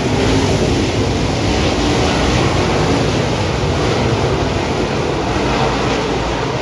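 A field of dirt-track race cars running at speed around the oval, their V8 engines making a loud, steady racket.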